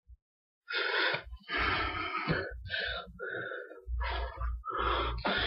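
A person breathing hard after exercise: a quick run of about seven loud, rough breaths in and out, starting about a second in.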